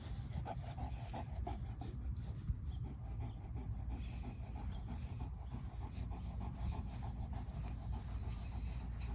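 A dog panting in quick, even breaths, with a steady low rumble underneath.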